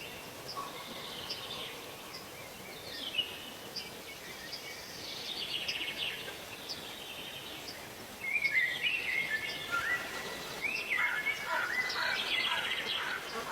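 Birds singing over a steady outdoor background hiss, with one short high chirp repeating at an even pace. About eight seconds in, the song gets louder and busier, with quick stepped notes.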